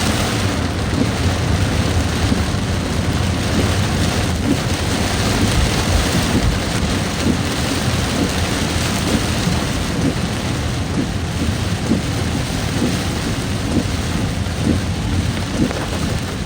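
Heavy rain pouring down steadily, with a constant low rumble underneath.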